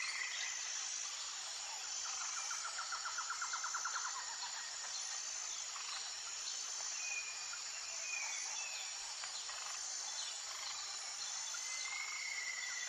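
Outdoor nature ambience: insects droning with a steady high, pulsing hum, over which birds call, with a rapid trill about two seconds in and a few short whistled notes later.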